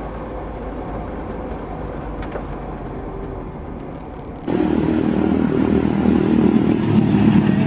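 Car engine running steadily, then abruptly much louder about four and a half seconds in.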